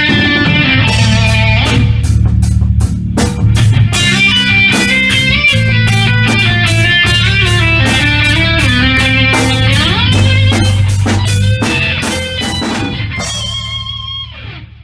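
Heavy rock played live: electric guitar riffing over a low bass line with drum hits, including a pitch bend about ten seconds in. The playing thins out and dies away, letting the last chord ring off just before the end.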